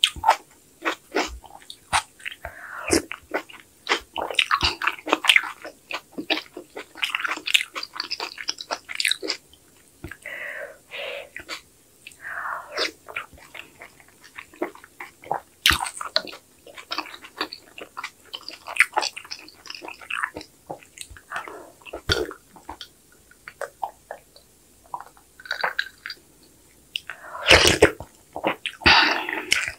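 Close-miked chewing of soft sujebi dough and kimchi soup: a steady run of small clicks and moist mouth sounds. Near the end come a couple of louder bursts as the wooden spoon goes back into the bowl of broth.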